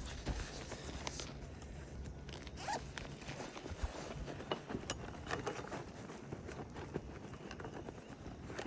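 Irregular short scrapes, crackles and clicks of hands working asphalt shingles on a roof.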